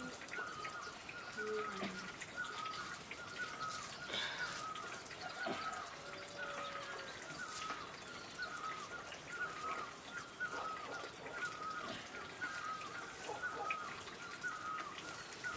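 A bird repeating a short chirp, a little more than once a second, with scattered faint clicks and knocks.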